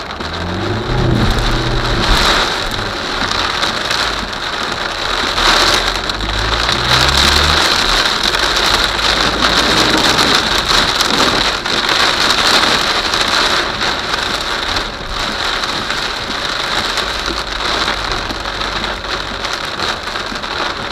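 Heavy rain pouring down in a thunderstorm, a steady loud hiss, with low rumbles about a second in and again around six to eight seconds in.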